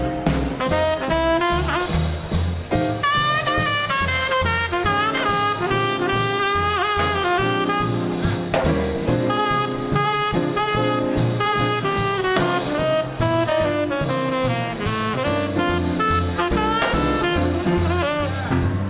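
Small-group swing band playing an instrumental chorus: saxophone and trumpet melody lines over piano, drums and a steady bass pulse.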